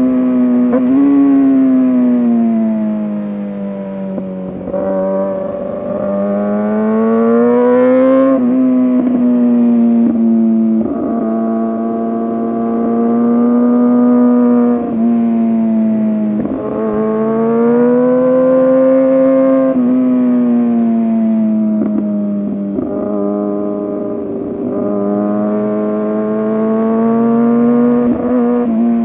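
Kawasaki ZX-6R 636 inline-four sport bike with an SC-Project exhaust, ridden hard through bends. The engine note climbs and falls as the rider works the throttle, with a short break and pitch jump every few seconds at each gear change.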